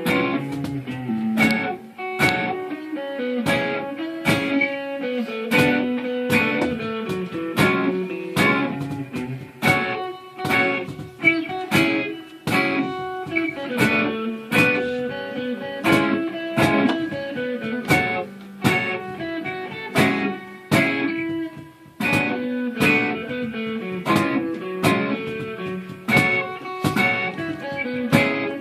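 Guitar played live, plucked notes and chords over a steady rhythm of sharp attacks.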